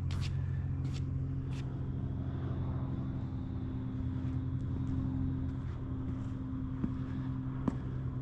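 Car engine idling steadily with an even low pulse, with a few light clicks early and near the end.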